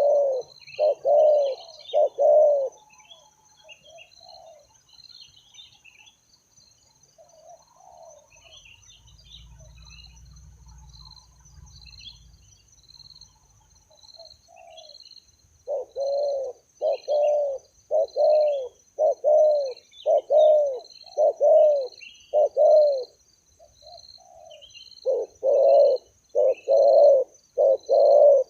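Spotted doves cooing: runs of short repeated coos about a second apart, at the start, again from about the middle and near the end, with small bird chirps between them.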